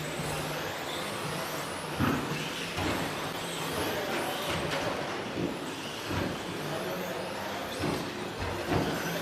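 Radio-controlled 2WD stadium trucks with 13.5-turn brushless electric motors racing: a steady mix of motor whine and tyre noise, with several passes where a motor's pitch sweeps up and down, each marked by a short knock.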